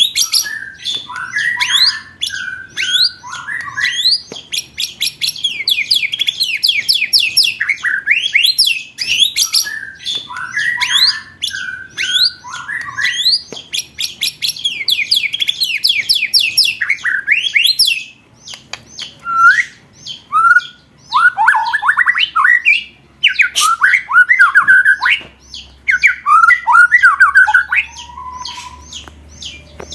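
Songbird master calls in fast rapid-fire rolls: trains of sharp rising notes, many per second, each lasting a couple of seconds, alternating with lower, harsher chattering notes. About two-thirds of the way in, the rolls give way to shorter, louder broken bursts of chatter.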